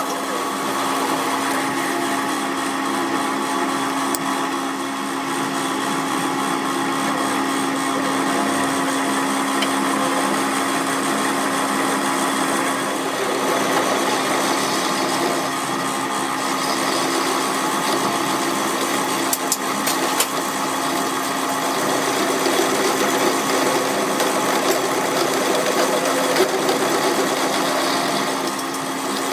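A workshop machine running steadily with a constant hum, its noise staying even throughout.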